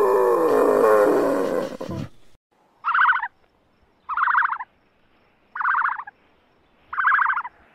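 A peccary's drawn-out call, wavering in pitch, lasting about two seconds and cutting off abruptly. Then come four short, evenly spaced, higher calls, roughly 1.3 s apart.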